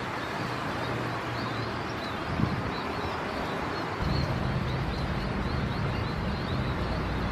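Steady outdoor background noise with faint high chirps; a low rumble comes in about four seconds in and holds.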